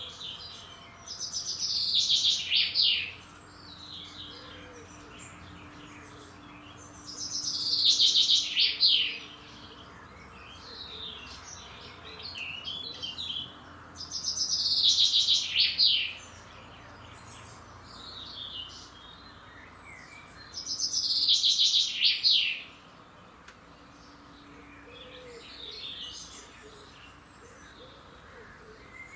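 A songbird singing the same loud phrase of about two seconds four times, roughly every seven seconds, with quieter chirping in between.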